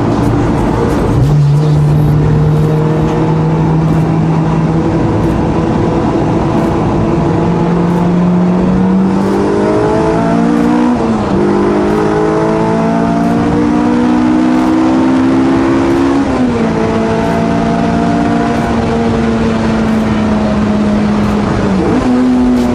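Honda Integra Type R DC5's K20 four-cylinder engine under way, revs climbing slowly and dropping sharply twice at gear changes, then holding a steady cruise.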